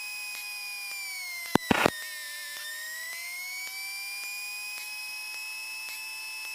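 Steady high whine on the Cessna 172M's cockpit intercom and radio audio. Its pitch sags a little around two seconds in and then climbs back. Near the two-second mark there is a short burst of radio static.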